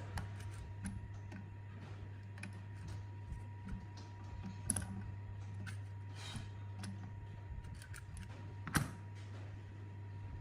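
Scattered light clicks and taps of metal parts being handled, with two louder sharp knocks about five and nine seconds in, over a steady low hum.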